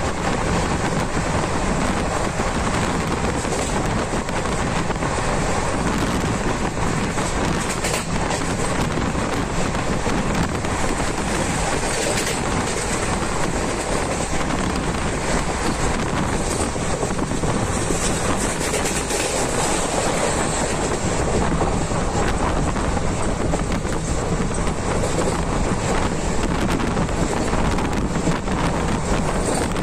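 Steady running noise of a moving train, with wind rushing over the microphone.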